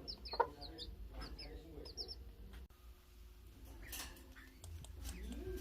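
Newly hatched chicks peeping in quick, short, high calls through the first two seconds, with a mother hen's low clucks among them. It goes quieter for a while, then a low rising call from the hen comes near the end.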